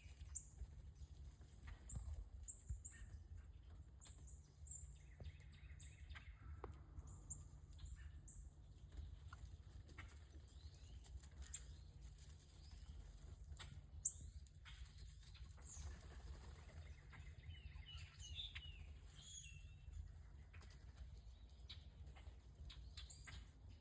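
Faint, scattered high chip notes and short calls from small songbirds, with a cluster of slurred calls around eighteen seconds in and one sharp click about fourteen seconds in, over a low steady rumble of wind.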